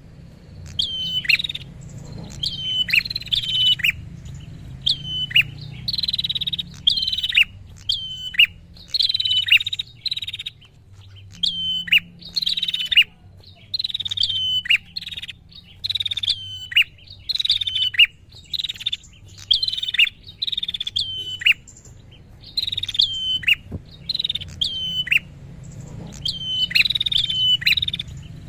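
Prinia (prenjak) calling insistently: a long run of sharp chirps, one or two a second, each sliding steeply down in pitch, the excited song used to lure and provoke rival prinias.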